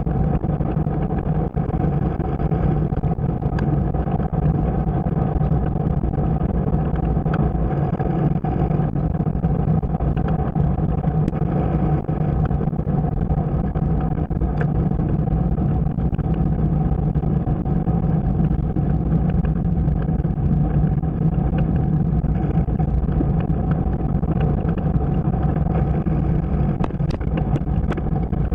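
Vehicle engine running at a steady speed with road and wind noise, its pitch holding steady throughout.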